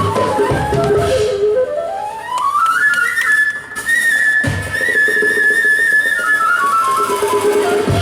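Live band music: a fast, stepwise high melody climbs about two octaves, holds at the top, then steps back down, with drum hits near the start and about halfway through.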